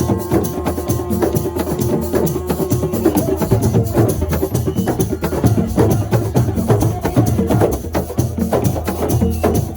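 Assiko percussion music: a fast, dense drum rhythm of rapid strokes over a steady low bass.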